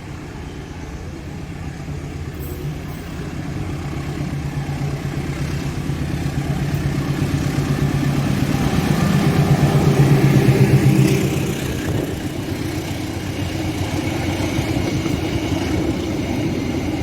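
A train passing close by, its engine and running noise building to a peak about ten seconds in, then easing off a little, with a fast rhythmic pulsing throughout.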